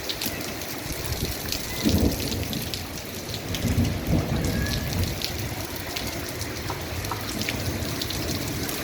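Steady rain with many individual drops striking close by. Low rumbles of thunder swell up about two seconds in and again around four seconds in.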